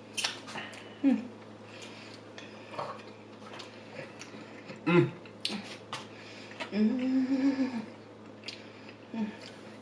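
Eating at a table: forks and utensils clicking and scraping against plates and takeout containers, with chewing. About seven seconds in there is a short hummed vocal sound of about a second.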